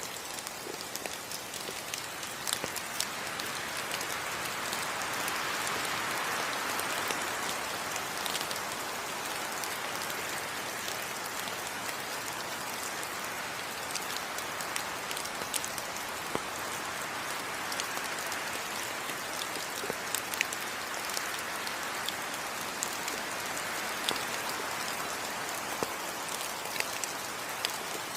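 Steady tropical rain falling on rainforest foliage: an even hiss, with many sharp individual drop ticks scattered through it.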